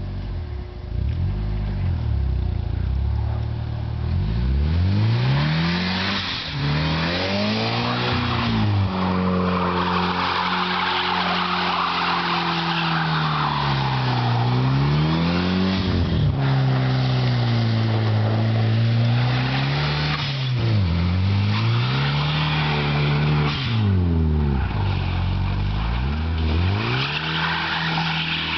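Eagle Talon TSi's turbocharged 2.0-litre four-cylinder revving up and down over and over as the all-wheel-drive car spins donuts in snow, its tyres spinning on the snow.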